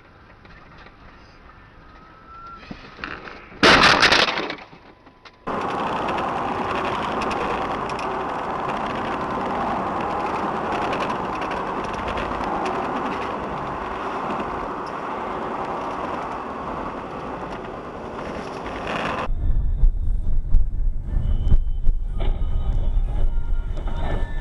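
Sudden loud crash of a car collision about four seconds in. A long stretch of steady rushing noise follows, then a heavy low rumble with scattered knocks near the end.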